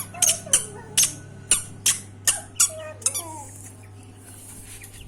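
A quick series of about eight short, sharp squeaks, two to three a second, that stop about three seconds in.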